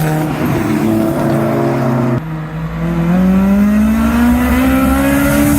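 A car engine pulling away under hard acceleration. Its note holds steady, breaks off sharply about two seconds in as at a gear change, then climbs steadily in pitch through the next gear.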